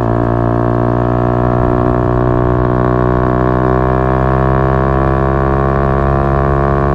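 Yamaha MT-125's single-cylinder four-stroke engine running through an Akrapovic exhaust at steady revs: a constant, even drone that holds the same pitch.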